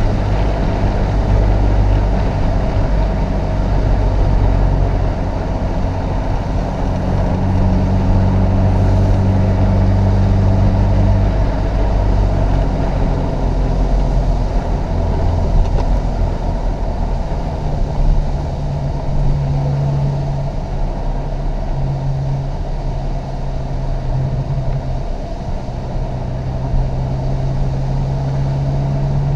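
Chevrolet Opala Comodoro 1988 coupe's original four-cylinder petrol engine pulling under load. It holds one steady note, drops about twelve seconds in, then settles on a higher steady note with a few brief dips as the throttle is lifted and reapplied.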